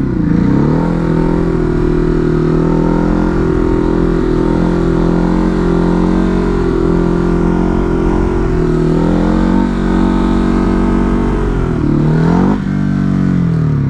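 Ducati Hypermotard's L-twin engine pulling up through the revs at the start, then held at a steady throttle for about ten seconds, as for a long wheelie. Near the end the revs climb sharply, then fall away.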